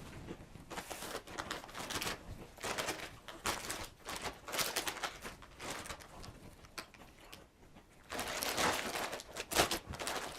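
Crunchy Cheetos being chewed close to the microphone, with the snack bag rustling: irregular crackling and crunching, louder for a couple of seconds near the end.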